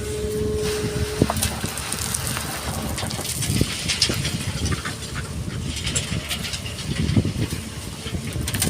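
Excavator working: a steady low engine rumble with a held whine that stops about a second in, followed by continual scraping, rattling and clattering of sand and stones.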